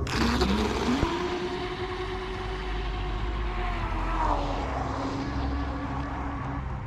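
Proboat Blackjack 24 RC catamaran's brushless electric motor whining. Its pitch rises about a second in as it throttles up, holds steady, then settles a little lower past the middle, over a steady hiss.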